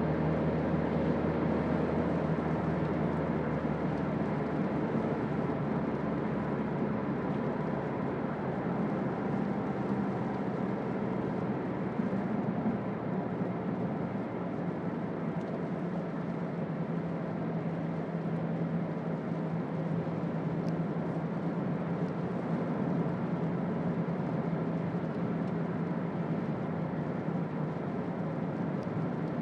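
Toyota Auris 1.4 D-4D four-cylinder turbodiesel and road noise while driving, a steady drone. The low engine hum changes its note about halfway through.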